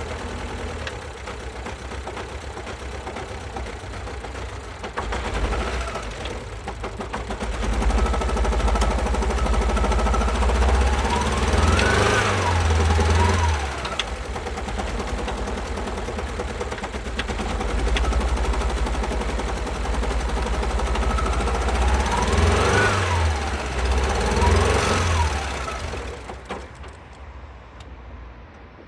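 Alfa Romeo Giulietta's 1.4-litre turbo petrol four-cylinder running rough with no compression on two cylinders. It is revved up and back down briefly twice in a row around the middle, and twice again later, then falls away near the end.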